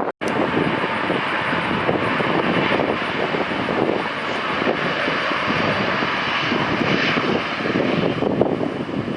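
Jet airliner engines running loud and steady, a wide rumble with a hiss on top. The sound cuts out for an instant just after the start.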